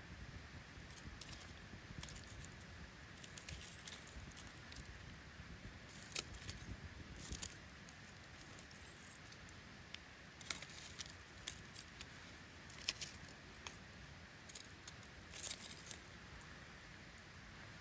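Wood campfire crackling: irregular sharp pops and snaps, some in quick clusters, over a low steady hiss.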